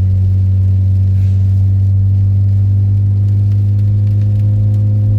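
Vehicle engine running steadily, a loud low hum whose pitch rises slightly near the end.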